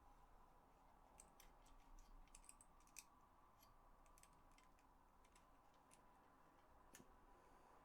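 Faint, scattered small clicks and taps of PS4 DualShock 4 controller parts being handled and refitted, with one sharper click about three seconds in.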